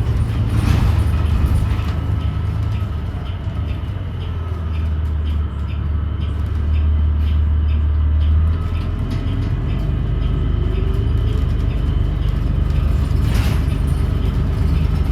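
Interior sound of a New Flyer XDE40 diesel-electric hybrid bus under way: a heavy low drivetrain drone whose pitch holds steady for a few seconds midway and then shifts. Light rapid ticking runs through the middle, and there is a short hiss near the start and again near the end.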